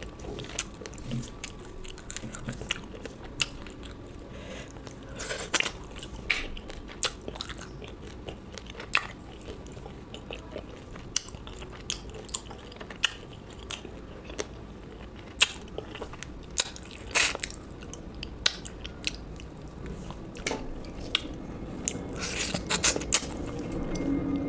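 A person chewing and crunching food close to the microphone, with sharp, irregular crunches every second or so.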